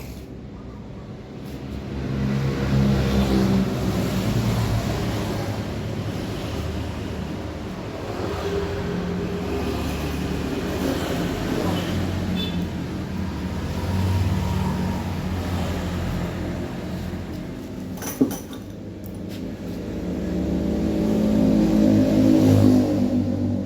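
Hand-held electric power tool motor running under varying load, its pitch and loudness rising and falling in several swells, with one sharp knock about 18 seconds in.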